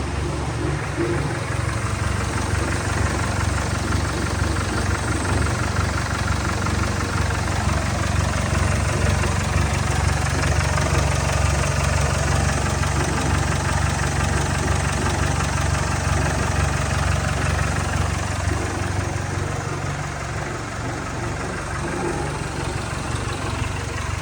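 2017 Jaguar XE's 2.0-litre four-cylinder engine idling steadily.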